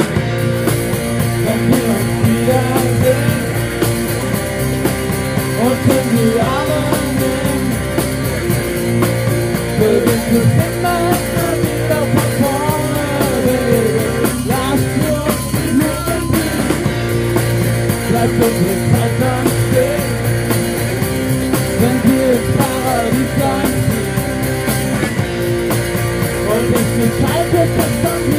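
Live rock band playing an instrumental passage: electric guitar with sliding, bending lead notes over bass and drums.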